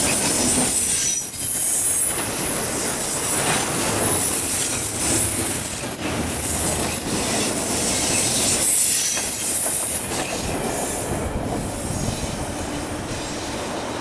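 Autorack and intermodal freight cars rolling past on the rails: steady wheel noise with high-pitched wheel squeal and irregular clickety-clack over the rail joints, easing slightly near the end.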